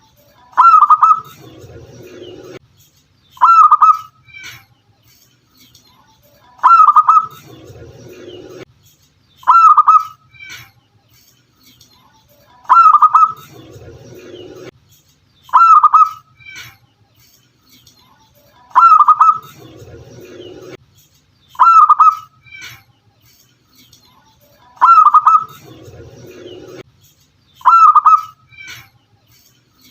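Zebra dove (local perkutut) cooing: short, loud call phrases repeat about every three seconds, and every other phrase is followed by a lower, softer rolling coo.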